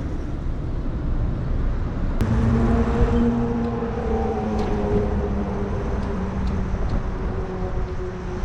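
Wind buffeting and road noise from riding on the road. About two seconds in, a steady vehicle hum comes in and slowly drops a little in pitch.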